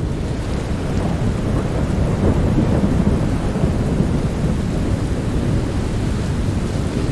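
Heavy rain with a steady deep rumble underneath.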